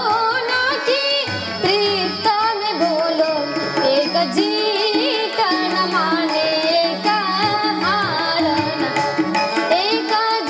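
A girl's voice singing a wordless, ornamented melodic passage over harmonium, with tabla keeping a steady rhythm.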